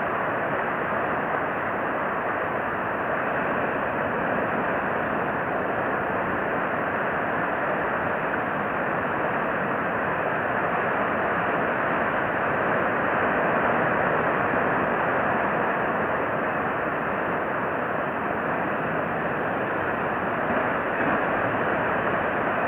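Steady outdoor background rush with no distinct events and no bird calls, swelling slightly about two-thirds of the way through.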